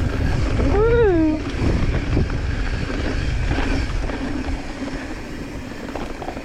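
Wind buffeting the microphone of a mountain bike ride camera over a steady rumble of tyres on trail during a descent. About a second in, a short whoop rises and falls in pitch.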